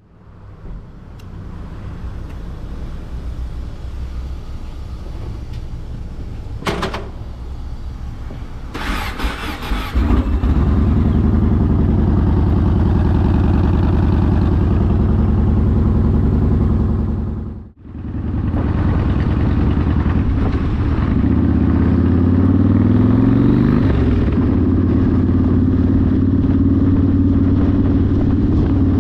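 Yamaha Warrior 1700's V-twin engine through a custom exhaust: quieter at first, then running much louder and deeper from about ten seconds in after a short burst of noise. It briefly cuts out about two thirds of the way through, then rises in pitch as it revs and settles back.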